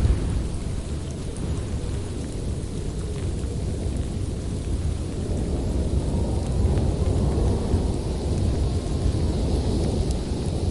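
Howling winter wind, a steady deep rumble of moving air with a faint higher hiss swelling near the end.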